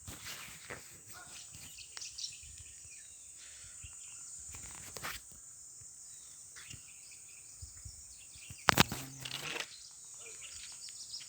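Outdoor ambience: a steady high-pitched insect drone with scattered bird chirps and small clicks, and one sharp loud click about nine seconds in.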